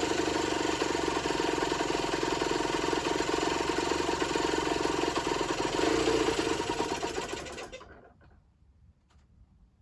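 Generic Trigger SM 50cc two-stroke engine running at a fast idle with a rapid even beat, rising briefly about six seconds in, then cutting out near the end. It is not running right.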